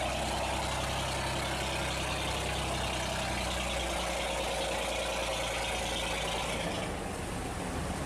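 Boat engine running steadily over a broad rushing hiss, its low hum shifting a little near the end.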